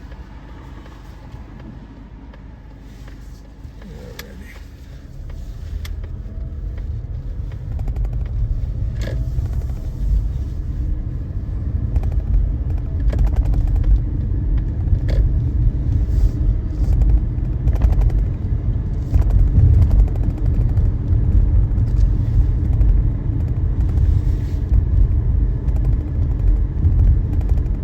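Car driving, a low road-and-engine rumble that grows louder between about five and eight seconds in and then holds, with scattered light knocks.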